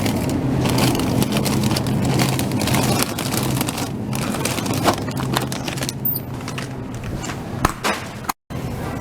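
Supermarket background noise: a steady low hum with scattered clicks and rattles. The sound cuts out completely for a moment near the end.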